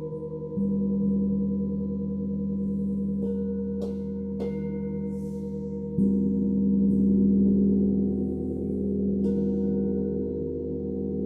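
Gong and singing bowls ringing in long, overlapping sustained tones. A deep stroke comes about half a second in and another at about six seconds, with lighter, higher strikes in between and near nine seconds.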